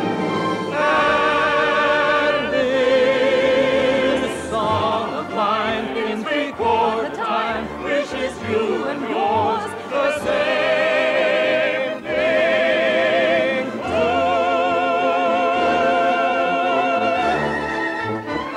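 Operatic singing with heavy vibrato over orchestral accompaniment: long held notes, with a busier run of shorter notes in the middle.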